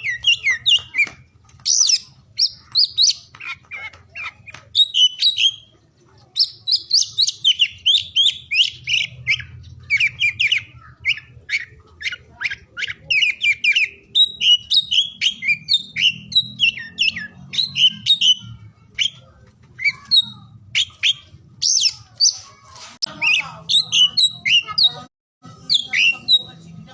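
Oriental magpie-robin (kacer) in full song: a continuous, varied stream of quick whistled phrases, trills and chirps with hardly a pause, over a faint low hum.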